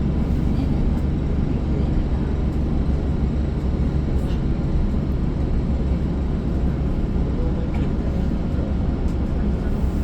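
Inside a moving transit bus: steady low engine and road rumble, with a few faint light rattles.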